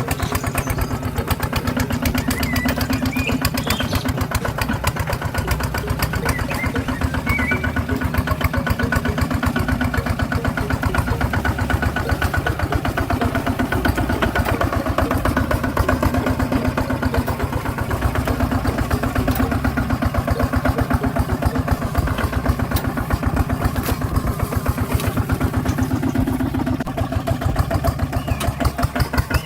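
Small engine running steadily, a fast even chugging beat that holds at one speed throughout.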